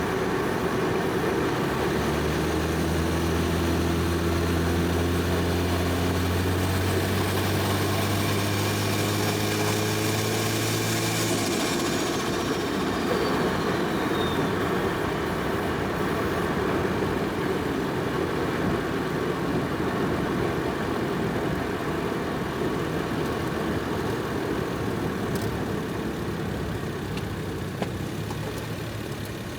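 Single-turbo Toyota 1JZ inline-six engine pulling steadily, its pitch rising slowly for about ten seconds before the driver lifts off abruptly. A high whine falls away in pitch just after, then the car cruises with steady road and tyre noise.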